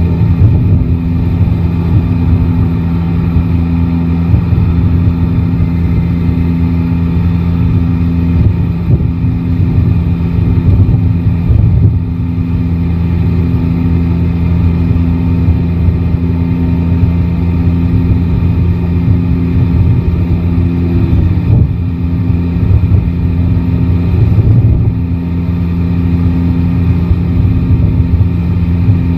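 Yamaha Tracer 9 GT's three-cylinder engine running on the move at a fairly steady pitch, with heavy wind rush over the rider's microphone.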